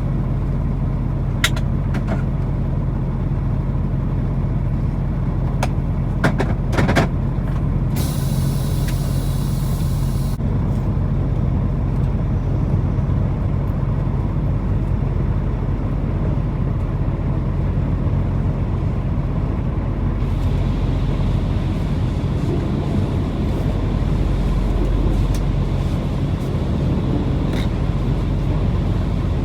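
Semi truck's diesel engine running with a steady low drone as it moves slowly. There are a few sharp clicks in the first seven seconds, and a hiss of about two seconds starts roughly eight seconds in.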